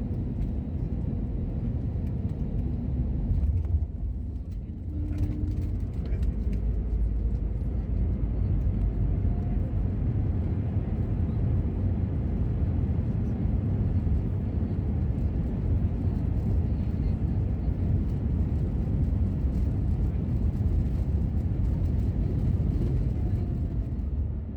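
Airbus A321neo airliner's jet engines during its landing: a steady low rumble, with a faint whine sliding up and down in pitch.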